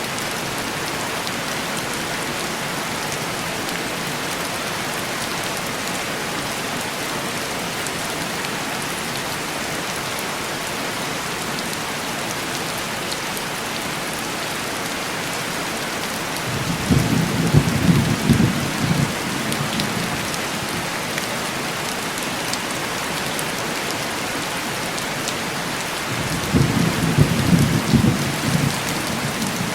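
Heavy rain tapping on window glass, a steady hiss, with two low rolls of thunder of about three seconds each, one a little past the middle and one near the end.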